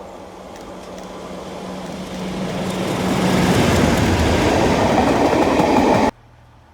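A train running close by, getting steadily louder for about three seconds with a steady hum. The loud running noise then holds and cuts off suddenly about six seconds in.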